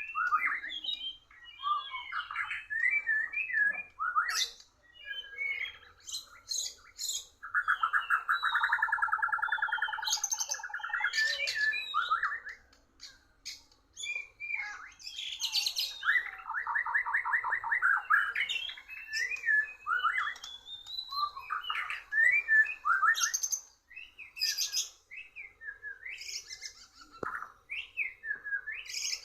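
White-rumped shama (murai batu) singing a varied song of loud whistles and chirps, broken by long rapid trills twice.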